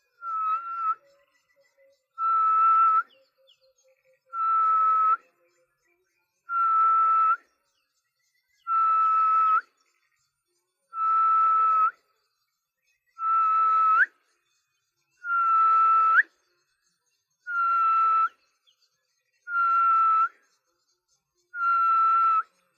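A man whistling an imitation of the grey-headed bushshrike's call. It is a series of eleven long, level notes, about one every two seconds, some ending in a slight upward flick.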